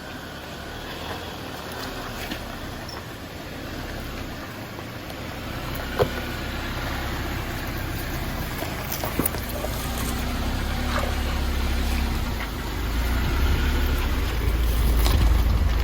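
Jeep Wrangler driving over a rocky off-road trail: a low engine and drivetrain rumble that grows steadily louder, with a few sharp knocks about six and nine seconds in.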